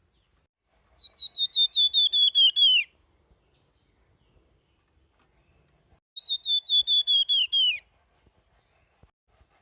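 A flamboyan (the songbird so named in Indonesian bird-keeping) singing two phrases, about a second in and again about six seconds in. Each phrase is a quick run of about a dozen clear, high whistled notes that step slightly down in pitch and end with a falling note.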